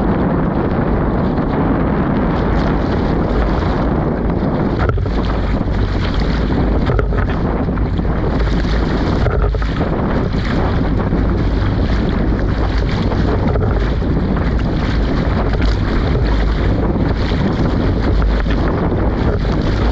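Strong wind blowing across the microphone in a steady, heavy rumble, over choppy lake water around a small inflatable boat.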